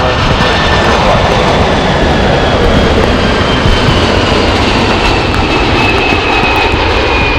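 Jet airliner's engines running loud, with a high whine that slowly falls in pitch.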